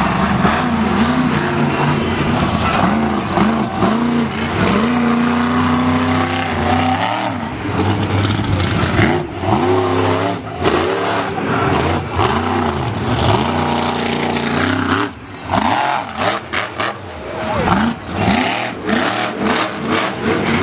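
Big racing engine revved hard, again and again, its pitch swooping up and falling back, held at a steady high note for a few seconds near the start.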